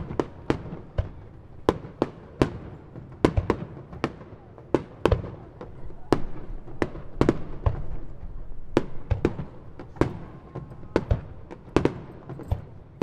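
Aerial firework shells bursting in quick succession: sharp bangs about two or three a second, with a continuous low rumble between them.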